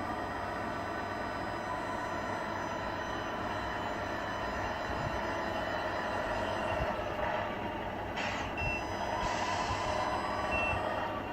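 Simulated truck diesel engine sound from a radio-controlled Tamiya truck's sound unit running steadily, with short hisses of air about eight and nine seconds in and a couple of short high beeps like a reversing warning.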